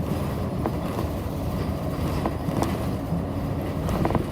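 Cabin noise inside a Nishitetsu city bus on the move: a steady low rumble from the engine and the road, with a few light rattles and clicks.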